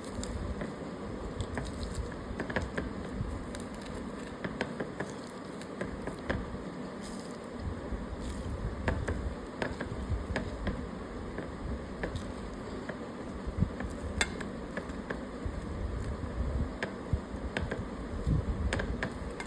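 Close-miked eating: chewing and mouth sounds with many small sharp clicks and crunches, over a steady low hum.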